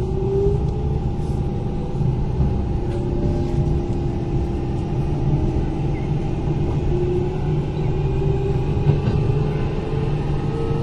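Kintetsu 8000 series electric train running, heard from inside the car: a steady rumble of wheels on rail, with a motor and gear whine that slowly rises in pitch near the start and again in the second half as the train picks up speed.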